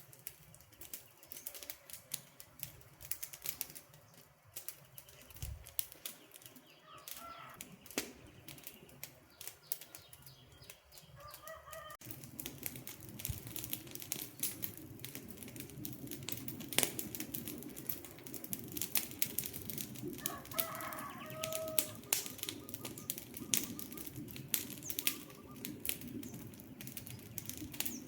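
Wood campfire crackling with many sharp pops, and a few short bird calls in the background. About twelve seconds in, a low steady rush joins the crackle.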